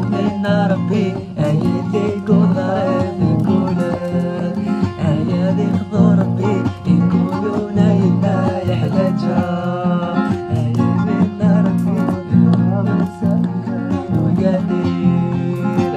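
Tahidoust Amazigh folk music: a plucked string instrument playing over a steady, regular percussion beat, in an instrumental stretch between sung refrains.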